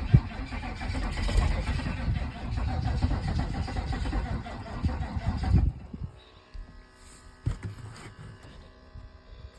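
GM 6.2-litre diesel V8 on a very cold start, running loud and uneven for about five and a half seconds. Then the sound drops suddenly to a much quieter steady hum with a few clicks.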